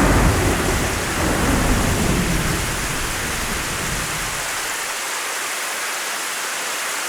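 Heavy rain making a steady, even hiss. A rumble of thunder at the very start rolls away over the first two or three seconds.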